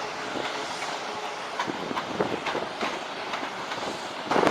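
Passenger train moving through the station, its wheels clicking irregularly over the rail joints against a steady rumble. There is a louder rush of noise near the end.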